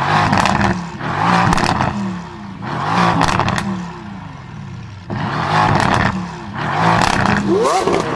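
Mercedes-AMG GT S twin-turbo V8 through an aftermarket ASG exhaust, revved in repeated surges about every two seconds, each rising and falling with a loud raspy exhaust note.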